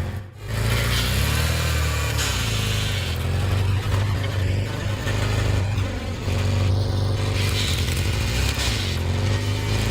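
A hydraulic wood splitter's power unit runs steadily as a low, engine-like drone, swelling and easing every second or two. It drops out briefly just after the start.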